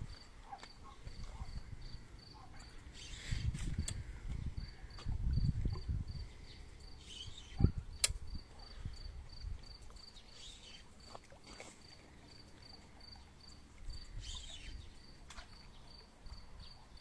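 A cricket chirping steadily on one high pitch, about three chirps a second. Low rumbling noise comes and goes twice early on, and a single sharp knock sounds about halfway through.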